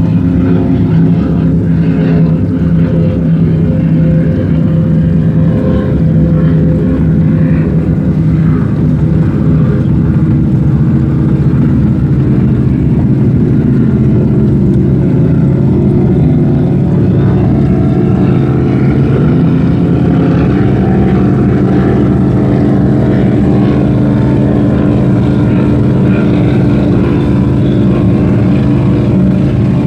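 Motorboat engines running loudly and steadily, their pitch sliding down and settling partway through as the boats change speed.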